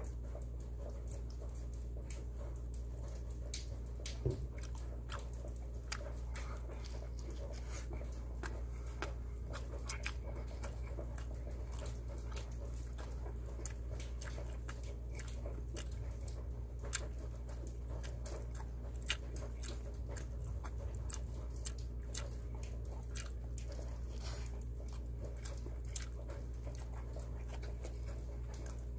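Close-miked eating: a man chewing pizza, with many small wet mouth clicks and smacks, over a steady low hum.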